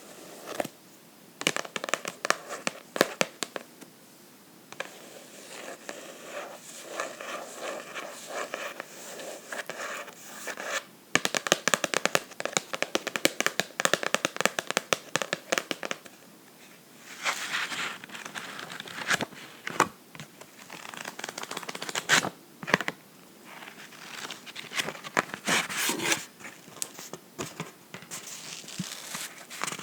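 Close-up book handling: fingernails scratching and tapping on a book's cover and pages, in irregular crackly strokes with a dense run of rapid taps around the middle.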